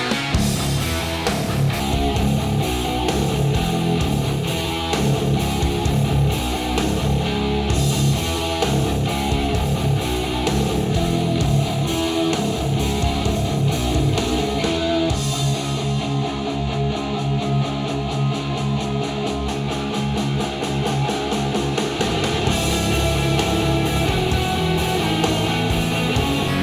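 Music with guitar and a steady rhythm, played back through a studio monitor speaker and picked up by microphones in the room.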